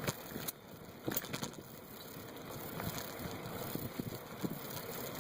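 A bicycle being ridden: steady tyre and riding noise with a few sharp rattling clicks near the start, picked up by a phone mounted on the bike.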